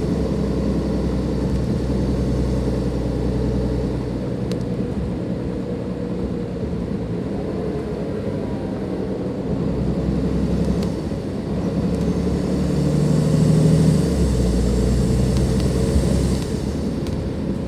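Dennis Enviro 500 double-deck bus's turbocharged Cummins ISLe diesel engine running under way. It pulls hard for the first few seconds, eases off for a long stretch, then pulls again for a couple of seconds near the end, with turbo whine over the engine note.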